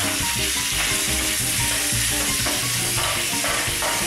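Browned ribs with chunks of onion and carrot sizzling steadily in a hot stainless steel roasting tin, stirred and scraped with a wooden spatula.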